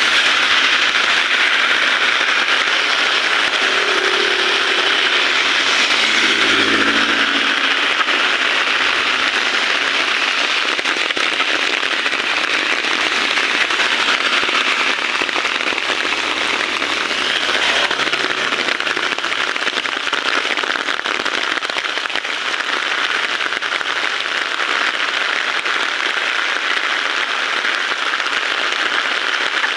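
Heavy rain falling in a dense, steady hiss, with a brief low pitched sound about six or seven seconds in.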